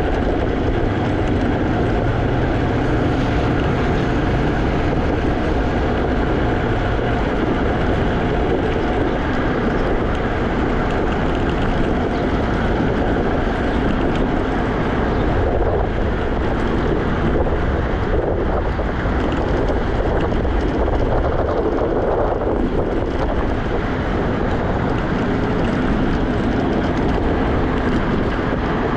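Wind on the microphone and the rolling rumble of a Segway Ninebot electric scooter riding steadily along, with a faint steady whine running underneath.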